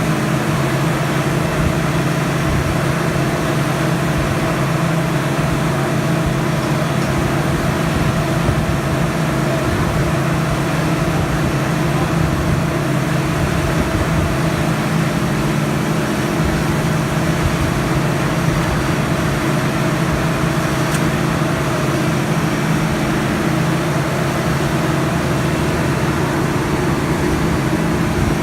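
1978 Schramm T64HB drill rig running steadily at a constant speed under test, its engine and machinery making a loud, even drone with a low hum.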